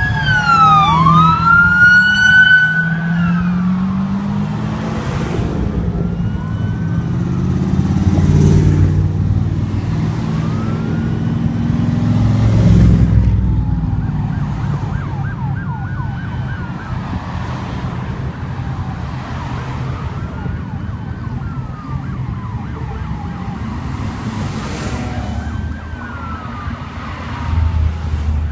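Emergency vehicle siren wailing, rising and falling in pitch about every four seconds, with two sirens overlapping near the start. Underneath is a low rumble of car engines and traffic that swells a few times.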